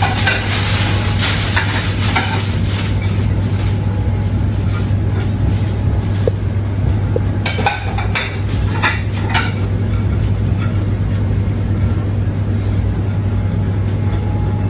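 Steady hum and hiss of commercial kitchen machinery, with plates and cutlery clattering in short flurries near the start and again about halfway through.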